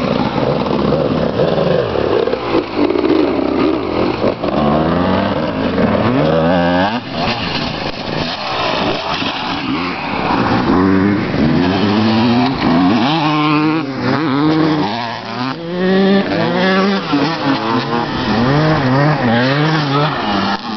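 Honda CR250 and Suzuki RM250 two-stroke 250 cc motocross bikes riding the track, their engines revving hard over and over. The pitch climbs, then drops back with each gear change or throttle chop, getting busier after the first few seconds.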